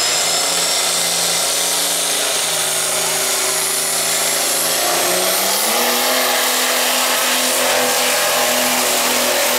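Cummins diesel truck engine running hard under load as it pulls a sled, with a high turbo whistle over it. About halfway through, the engine note and the whistle both rise in pitch.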